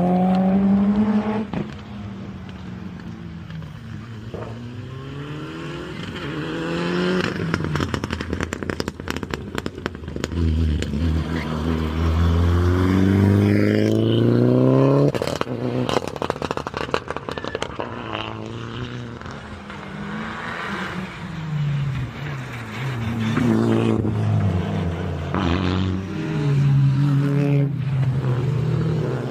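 Rally car engines revving hard and accelerating through the gears, several cars passing one after another with rising and falling engine pitch. Bursts of sharp crackling come in the middle.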